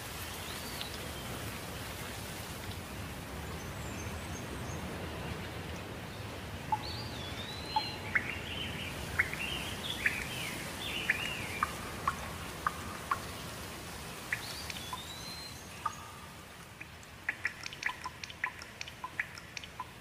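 Birds calling, with rising and falling whistled notes and short chips, over a steady outdoor hiss. A run of quick, sharp ticks starts near the end.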